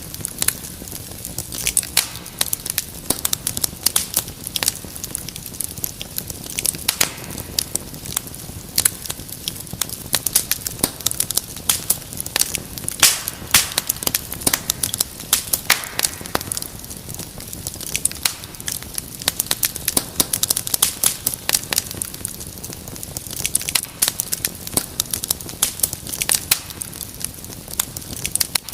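Wood fire crackling in a fireplace: a dense, irregular run of sharp pops and snaps over a soft hiss.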